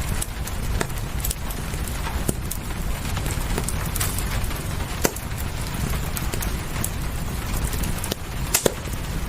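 Wood fire crackling, with sharp pops at irregular intervals, the loudest about five seconds in and near the end, over a steady hiss and low rumble of rain.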